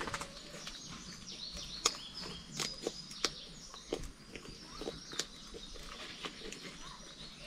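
Birds chirping, with a few sharp taps and clicks scattered through it, the loudest about two seconds in.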